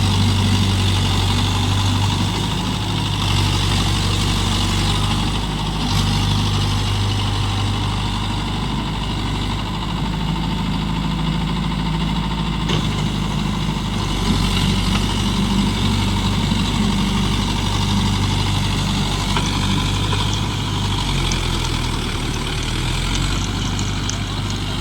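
Mahindra Yuvo Tech+ 585 DI tractor's diesel engine running steadily, with a continuous low hum that shifts slightly in tone a few times.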